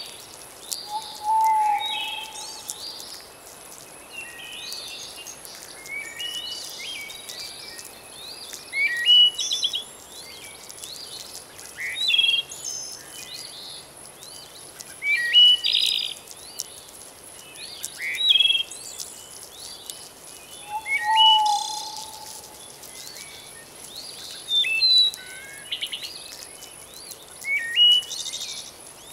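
Several songbirds calling, with bursts of short high chirps and trills every few seconds. A lower whistled note comes twice, about a second in and near two-thirds through. Underneath is a soft even hiss and a faint steady high-pitched tone.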